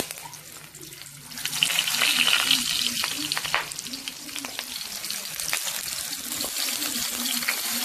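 A banana-leaf parcel of marinated chicken sizzling in a little hot oil in a steel kadai. The sizzle swells about a second and a half in and goes on with small crackles as the parcel is pressed and shifted in the pan.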